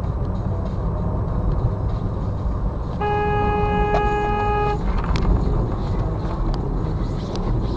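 Steady low rumble of a vehicle driving in traffic. About three seconds in, a car horn sounds once and is held for under two seconds.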